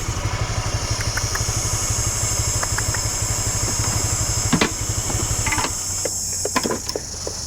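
Small rental motorbike engine running with a steady low pulse, settling to a lower, even idle about two-thirds of the way through. Insects keep up a steady high-pitched buzz.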